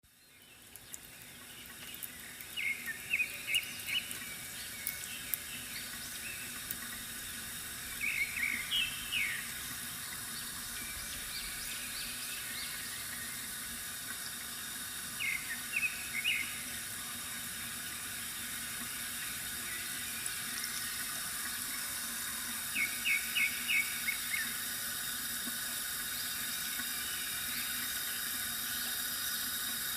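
Water trickling steadily from a bamboo fountain, fading in over the first second or two. Small birds chirp in short runs of quick notes, four times.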